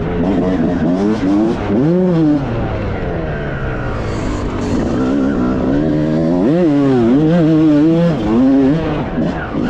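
Dirt bike engine on a motocross track, revving up and easing off over and over as the throttle is worked, its pitch rising and falling, with a sharp climb about six and a half seconds in.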